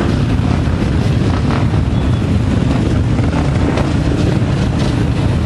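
Off-road motorcycle and quad engines running in a steady low rumble, with wind buffeting the microphone.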